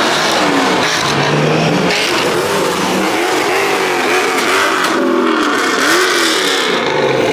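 Car engines being revved in short repeated blips, the pitch rising and falling about once a second, over a steady wash of crowd and traffic noise.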